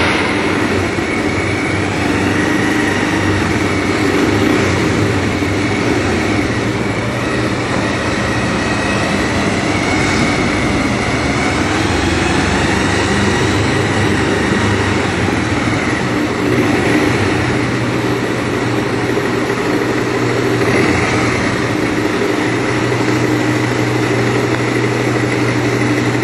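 Bajaj Pulsar (Rouser) 200cc single-cylinder motorcycle engine running steadily while riding, heard from onboard under a continuous rush of wind and road noise.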